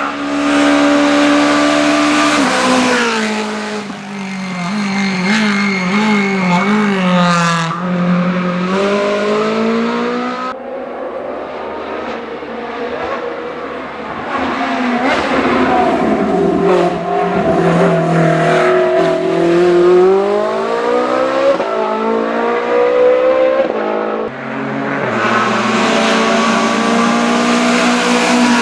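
Race car engines at a hill climb, loud, revving hard and changing gear. The pitch climbs under acceleration and drops sharply on each shift or lift. The sound changes abruptly twice, once about a third of the way in and once near the end.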